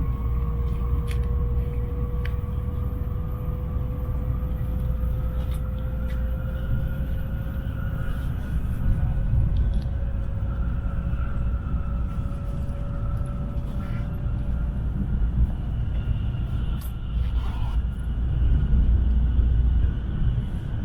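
Tokaido Shinkansen bullet train heard from inside the passenger cabin: a steady low running rumble with a faint whine that slowly rises in pitch.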